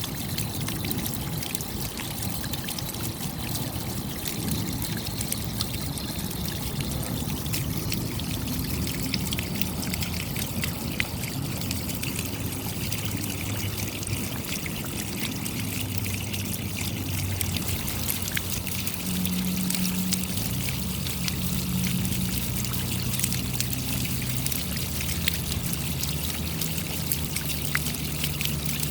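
Steady rain: a continuous wash of falling water with many individual drops ticking through it, over a trickle of running water. A low steady hum comes up about two-thirds of the way through.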